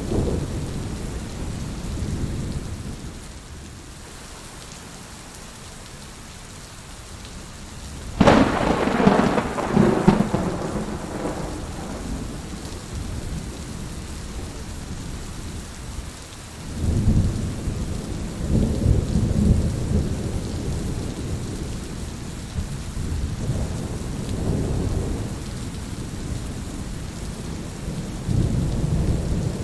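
Steady rain falling during a thunderstorm, with a sharp thunderclap about eight seconds in and low rolling thunder rumbling later and again near the end.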